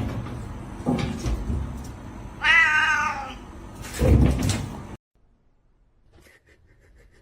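A domestic cat meowing, one long wavering meow about two and a half seconds in, with a couple of low thumps around it. The sound cuts off abruptly about five seconds in.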